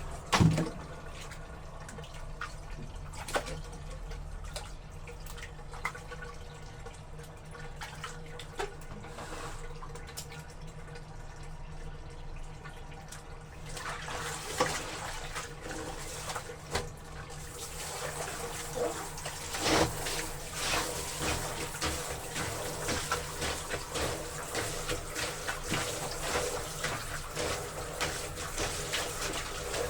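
Water splashing and sloshing in a laundry tub as wet clothes are trodden underfoot, with many small splashes that come thicker about halfway through.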